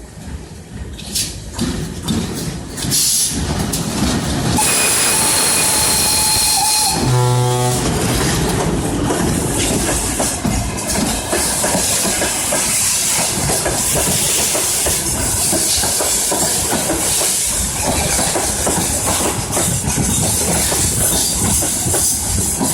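Soviet VL10 two-section electric locomotive passing at the head of a freight train: the noise builds over the first few seconds, a short horn blast sounds about seven seconds in, then the steady rumble and clatter of the freight wagons rolling by.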